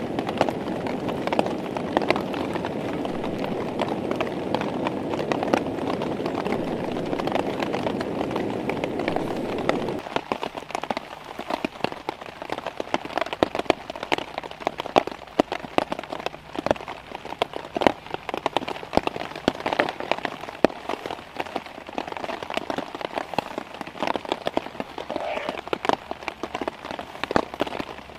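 Rain pattering on a tarp, with many sharp, irregular drop hits. For about the first ten seconds a steady, lower rushing sound runs under the drops, then cuts off abruptly, leaving only the pattering drops.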